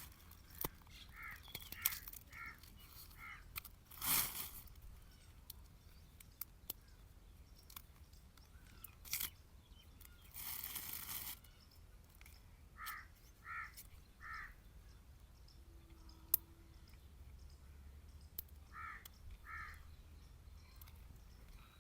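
A crow cawing in short series: four calls, then three, then two, each series about a call every two-thirds of a second. Between them come brief scraping noises and a few light clicks.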